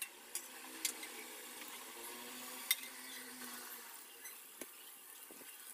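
Chopped vegetables frying in oil in a pan: a faint steady sizzle with a few sharp clicks, the loudest about halfway through.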